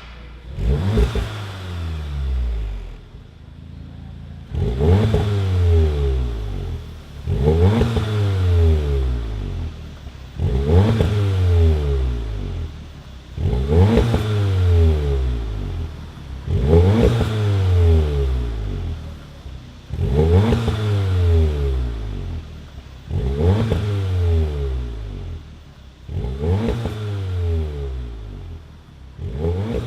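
Mk7 VW Golf R's 2.0-litre turbocharged four-cylinder engine, breathing through a stainless resonator-delete exhaust, being free-revved about ten times, roughly every three seconds. Each rev climbs quickly and falls back, with a few sharp pops near the peaks.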